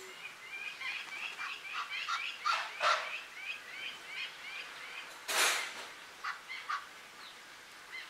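A bird calling in a rapid run of short, falling calls, about three or four a second, for the first four seconds or so, then a few scattered calls. A brief loud rush of noise comes about five seconds in.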